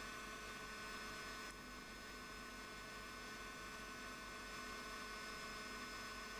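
Faint, steady electrical hum with several steady tones over a low hiss.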